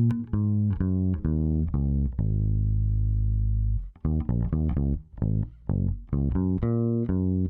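Bass guitar playing a solo line through the McDSP Analogue 202 tape emulation plugin: quick plucked notes, one long note left ringing about two seconds in, then after a short break a run of short, clipped notes.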